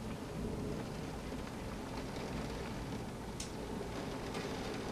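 Steady rain during a thunderstorm at night, with a low, steady rumble underneath and a few sharp drop ticks, the clearest about three and a half seconds in.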